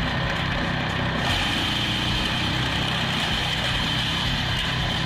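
Engine-driven wood shredder running steadily, with a low engine hum under the noise of the machine at work. A brighter, higher hiss joins about a second in.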